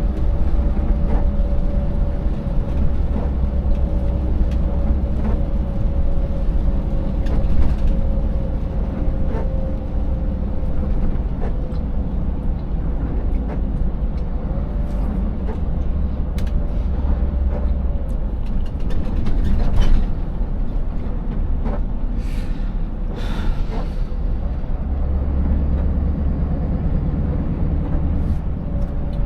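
Scania 590S V8 truck driving: a steady low engine and road rumble with a faint whine that slowly drops in pitch over the first ten seconds or so. Scattered knocks and rattles run through it, and there are a couple of brief hisses a little over twenty seconds in.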